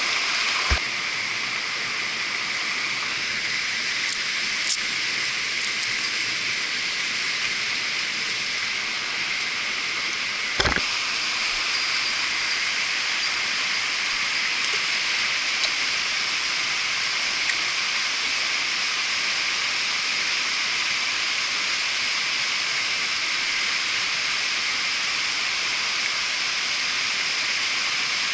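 Mountain stream rushing, a steady hiss of flowing water, with a couple of short knocks, one about a second in and one near the middle.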